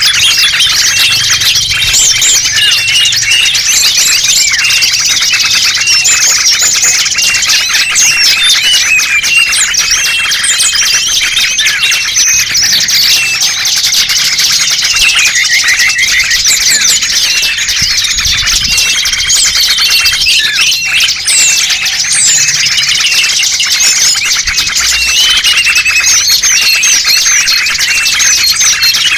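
Bird-lure recording: a dense chorus of many small songbirds chirping and trilling over one another without a break. A short steady whistled note comes back every eight or nine seconds.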